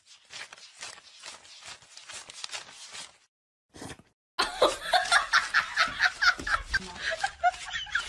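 People laughing: soft breathy snickers at first, then after a short pause a loud burst of laughter about halfway through.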